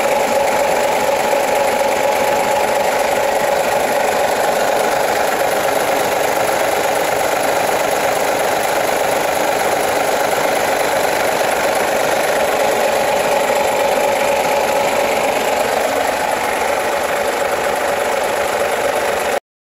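Hino E13C straight-six turbo-diesel truck engine running steadily, then cutting off abruptly near the end.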